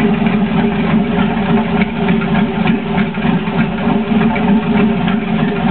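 2006 Corvette LS2 6.0-litre V8 idling steadily.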